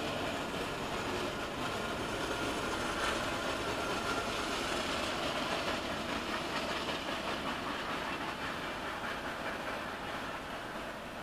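Norfolk Southern freight train rolling past, a steady noise of wheels on rail that grows a little quieter near the end.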